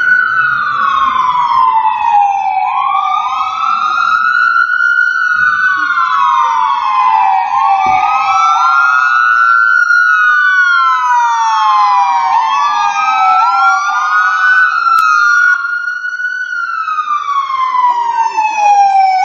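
Sirens of two fire engines in a slow wail, overlapping and slightly out of step. Each rises and falls in pitch about every four to five seconds.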